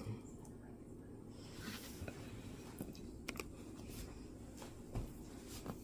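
Faint, scattered light clicks and taps of serving utensils and handling as a chicken wing is picked out to be served.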